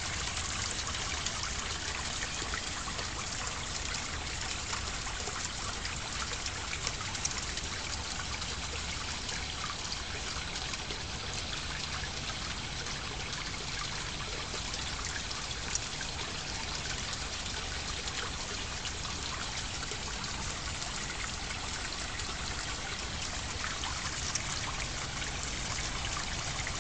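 Water trickling steadily, an even splashing hiss with many small droplet ticks.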